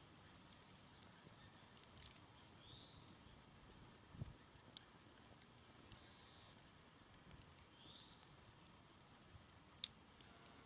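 Smoldering campfire with sparse faint crackles and pops, and one soft low thump about four seconds in. A faint short high chirp from a bird recurs every few seconds.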